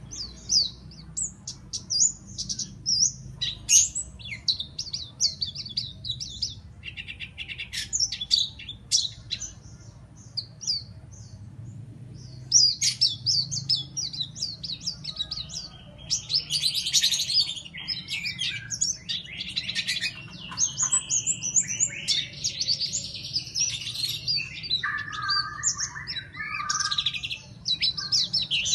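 A pleci (white-eye) singing in long, fast runs of high chirps and trills, the rapid-fire song that bird keepers call 'nembak', with a faint steady hum beneath.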